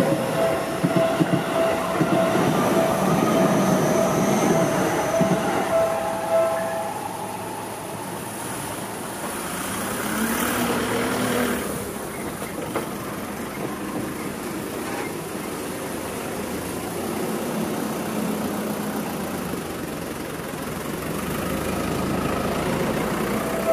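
Seibu Ikebukuro Line electric commuter trains. One passes close with rumbling wheels and a steady whine, both fading out over the first several seconds. Then comes a quieter stretch of distant rail noise that slowly grows louder near the end as another train approaches.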